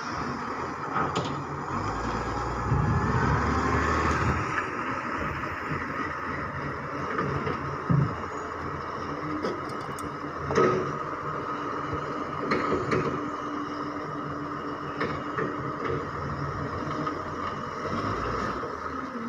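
Garbage truck running steadily while it works a collection. Two sharp knocks come at about 8 and 10.5 seconds, with a few lighter clunks after.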